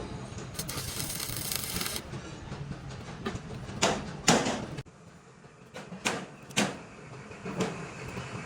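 Metalworking workshop sounds: a hiss of about a second and a half near the start, a steady hum that cuts off suddenly about five seconds in, and several sharp knocks of metal on metal.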